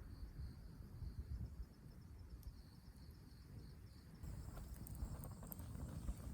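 Insects chirping faintly in a steady, even high-pitched pulse, over a low rumble.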